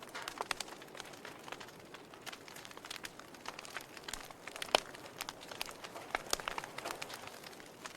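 Wood fire crackling in a fireplace: irregular sharp pops and snaps over a soft hiss, with one loudest pop a little past halfway.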